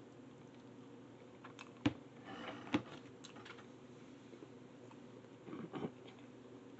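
Close-up eating sounds of instant ramen noodles being chewed, with lip smacks. Two sharp smacks come about two and three seconds in, and a short cluster of mouth sounds comes a little before six seconds.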